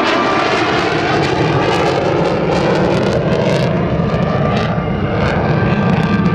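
F-15E Strike Eagle fighter jet flying past the crowd, its engine noise loud and steady throughout.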